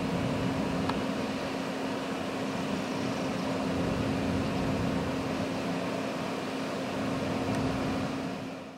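Steady mechanical hum with a constant low drone over even noise, cutting off abruptly at the end.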